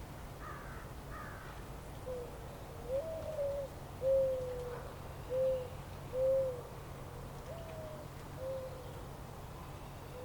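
A bird giving a series of short, low hooting calls, about eight single notes a second or so apart, a couple of them stepping up in pitch, over a steady low background hum. Two faint, higher falling calls sound about half a second and a second in.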